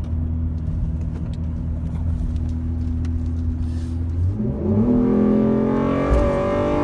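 Ford Edge engine and exhaust heard from inside the cab. It drones steadily at highway cruise, then about two-thirds of the way in the revs climb sharply under hard acceleration in sport mode, and the engine stays at high revs. It is about as loud as it gets in the cab.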